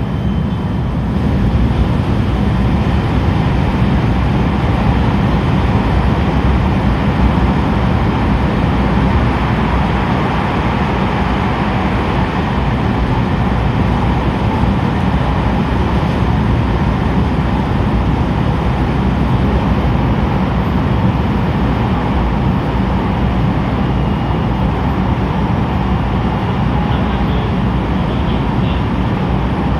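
JR 223 series 2000 subseries electric train running steadily at speed: a continuous rumble of wheels on rail with a steady level throughout.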